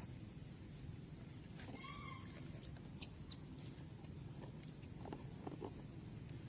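A monkey's single short, high squeak about two seconds in, followed by two sharp clicks and some faint crackling over a steady low background hiss.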